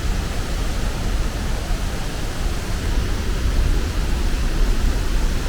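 Steady rush of a 70-metre waterfall pouring into its pool: a loud, even water noise with a deep rumble underneath.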